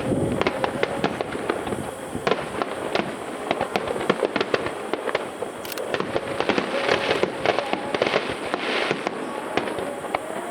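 Aerial fireworks finale barrage: a dense, continuous stream of shell bursts and crackling with no gaps, many bangs overlapping each second.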